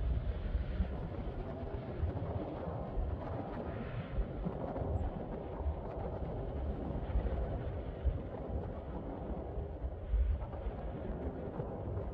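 Distant airliner jet engines running with a steady noisy roar, with gusts of wind buffeting the phone's microphone.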